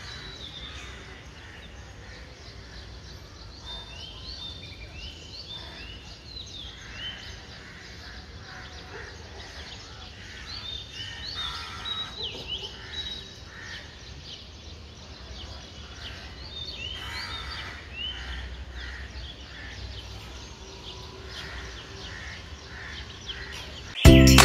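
Small birds chirping in short repeated clusters of quick high notes over a steady low outdoor background noise. Loud music cuts in abruptly right at the end.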